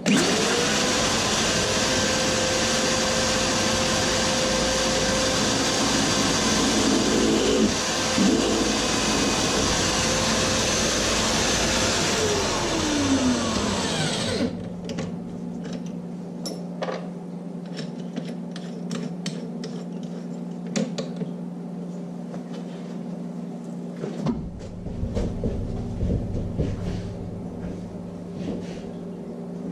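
A metalworking machine's motor spins up about half a second in and runs loud and steady. Around twelve seconds in it winds down with a falling whine, leaving a lower steady hum with scattered clicks and knocks.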